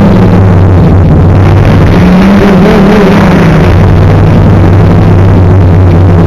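Quadcopter's brushless motors and propellers heard from on board. The sound is very loud and noisy with wind, and a low hum shifts in pitch several times as the throttle changes.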